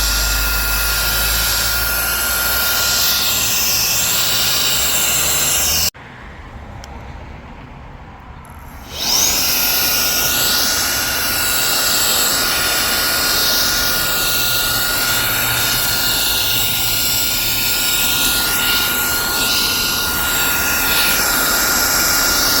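REIKIYA HV-C11 cordless mini vacuum running in air-blower mode: a loud, steady rush of air with a high motor whine. About six seconds in it cuts out suddenly, and about three seconds later it spins back up with a quick rising whine and runs steadily again.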